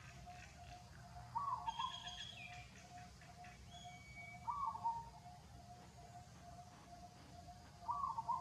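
Birds calling outdoors: a short call repeats about every three seconds over a steady, rapid pulsing note, with a few higher chirps and whistles in the first half.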